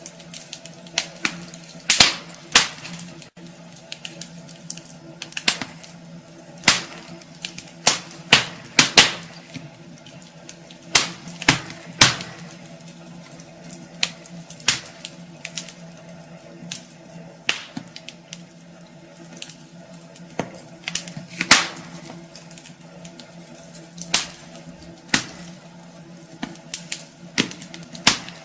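Wood fire crackling in a fireplace: irregular sharp snaps and pops of burning logs, some much louder than others, over a faint steady hum.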